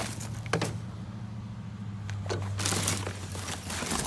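A few sharp knocks and clicks and a short rustle as scrap is handled and pulled apart, over the low steady hum of an idling vehicle that fades out near the end.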